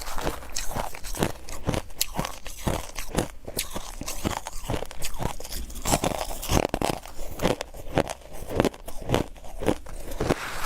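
Close-up mouth sounds of someone biting and chewing refrozen powdery freezer ice: a quick, irregular run of soft crunches, several a second.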